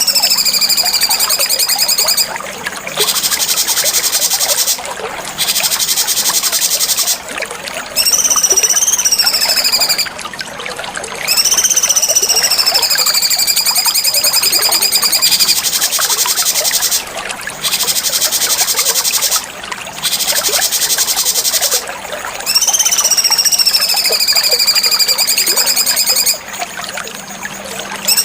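Cucak cungkok bird song: clear whistled notes that slide downward in pitch, alternating with harsh buzzing rattles, repeated phrase after phrase with short abrupt gaps between them.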